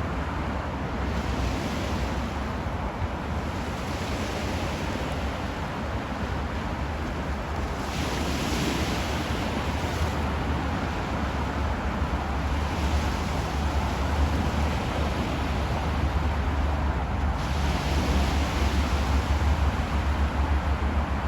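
Sea surf washing on the shore, with waves breaking in surges every several seconds, and wind buffeting the microphone with a steady low rumble.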